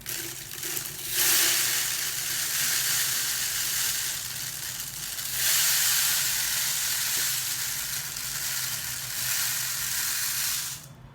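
Birdseed grains pouring from a mug through a funnel into a plastic bottle, a dense steady hiss of falling grains. It grows louder about a second in, dips briefly around five seconds in, and stops suddenly near the end.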